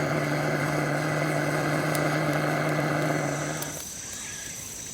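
A small motor running at a steady pitch, a constant hum under an airy rush, that winds down and stops a little before the end.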